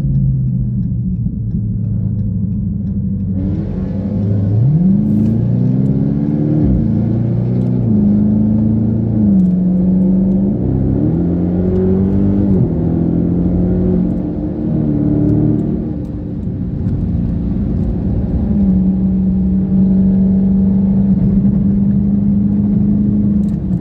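Car engine running loud, its pitch rising and dropping back several times as the throttle is worked, then settling into a steady drone for the last several seconds.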